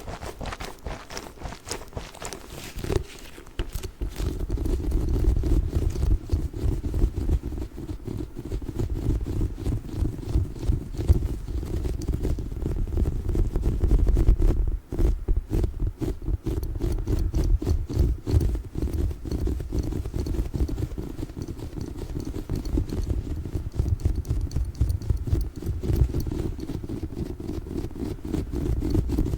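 A giant orbeez (water-bead gel) ball being tapped and squished close to the microphone, in a dense run of rapid, soft, deep taps.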